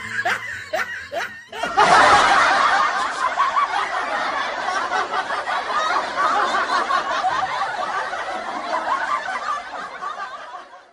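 Laughter starts about two seconds in, after a few short clicks, and continues densely, slowly fading toward the end.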